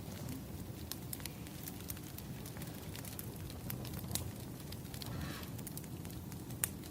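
Wood fire crackling: irregular sharp pops over a steady low rumble of the burning logs, with a brief hiss a little past the middle and one louder pop near the end.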